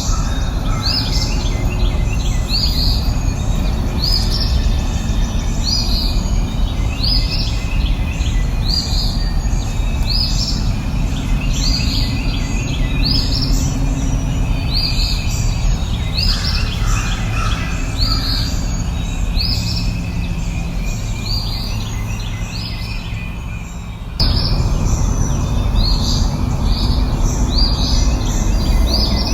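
Birds chirping over a steady low rushing background, about one call a second, each a quick downward-sweeping note. Near the end the background sinks a little, then cuts back in abruptly.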